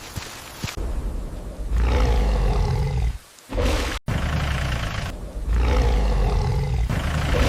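Two long, deep animal-like roars of a monstrous creature, one after the other, the second longer.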